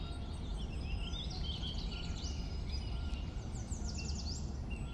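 Outdoor ambience: birds chirping over a steady low background rumble, with a quick run of repeated chirps about four seconds in.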